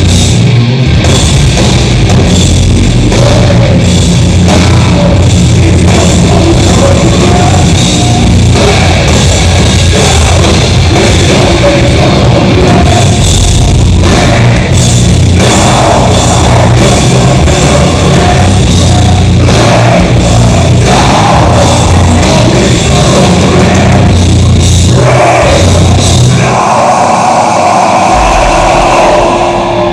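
Live heavy metal band playing loud, with distorted electric guitars and a pounding drum kit, recorded from the audience so the sound is loud and crowded. The deep bass drops away for a moment a few seconds before the end.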